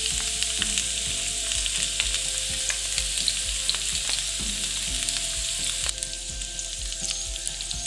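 Zucchini rings frying in hot rapeseed oil, a steady sizzle with many small crackling pops as spoonfuls of raw egg filling go into the rings; the sizzle gets a little quieter about six seconds in.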